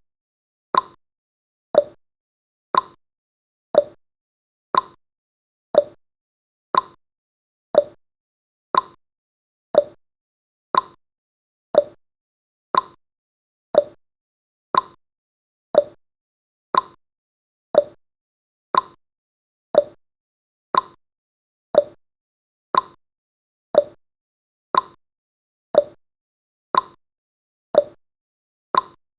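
Clock tick-tock sound effect marking each second of a countdown timer: one short click a second, alternating a higher and a lower tick.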